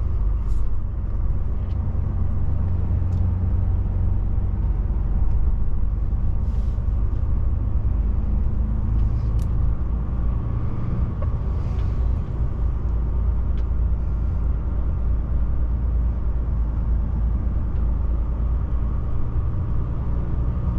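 DAF truck's diesel engine and road noise heard from inside the cab while driving, a steady low rumble with a few faint clicks.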